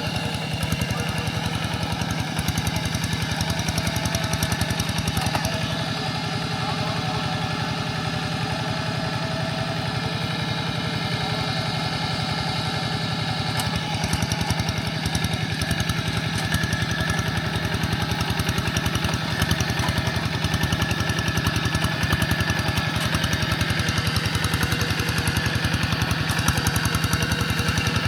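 Single-cylinder diesel engine of a Quick G1000 walking tractor running steadily with an even, rapid chugging, pulling a moldboard plow through wet soil.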